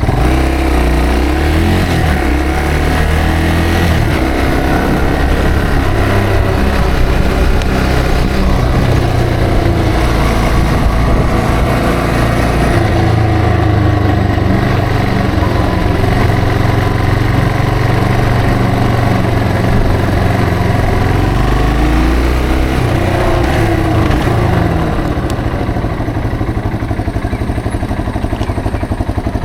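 Yamaha TW225's single-cylinder four-stroke engine running under way, its pitch rising and falling as it accelerates and changes gear. It eases off and gets quieter about four seconds before the end.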